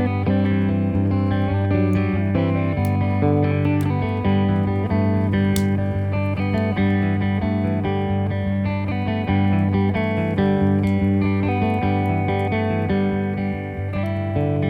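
Instrumental guitar break in a slow desert-blues style: plucked, repeating guitar notes over a steady low drone, with no singing.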